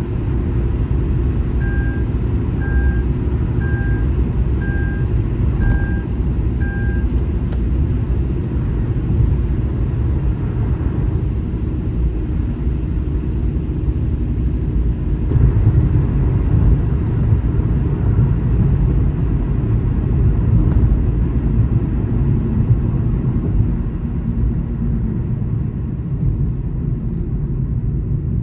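Car on the highway: a steady low rumble of tyre and road noise. Early on, six short electronic beeps sound about one a second.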